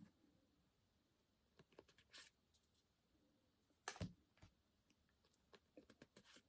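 Faint clicks and light rustles of Pokémon trading cards being handled and flipped through, with one louder tap about four seconds in.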